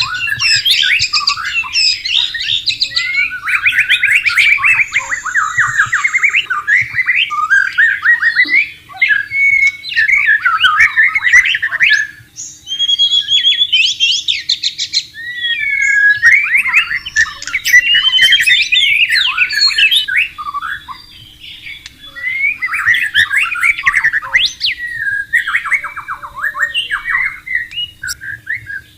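White-rumped shama singing: long runs of rapid, varied whistles, trills and harsh squawking notes, with two short breaks in the song.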